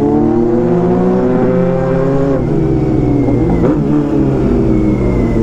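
Honda CB400 Super Four's inline-four engine pulling under acceleration while being ridden. Its note climbs, dips briefly about halfway through, then climbs again.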